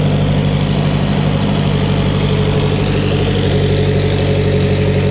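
Car engine idling steadily at an even, unchanging pitch.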